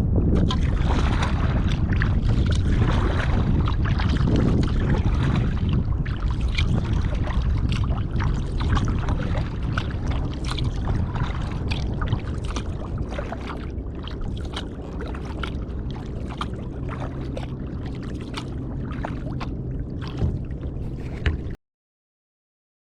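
Kayak paddling on a lake, water splashing and dripping from the paddle strokes, under steady wind rumble on the microphone. The sound cuts off suddenly near the end.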